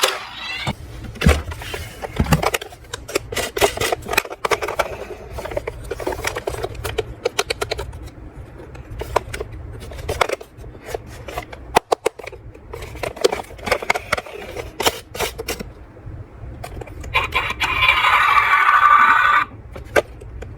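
Small toy vehicles clattering and scraping, with many sharp clicks and rattles. A pitched tone with several notes sounds for a couple of seconds near the end.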